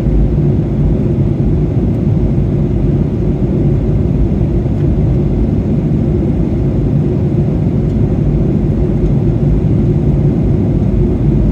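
Steady low rumble of a Boeing 737-800's engines and airflow heard inside the passenger cabin in flight.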